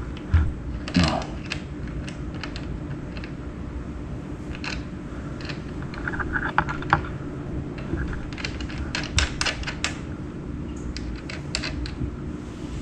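Irregular light clicks and taps of tools and parts being handled while an electric dirt bike is put together, over a steady low hum.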